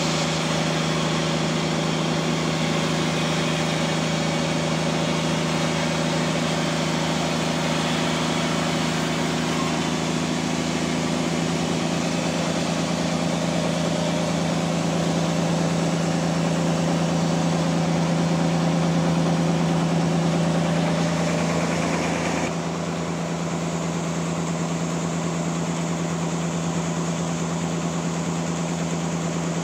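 Sawmill machinery running steadily: a low, constant machine hum with a hiss above it. The sound drops abruptly and a little quieter about three-quarters of the way through, then carries on.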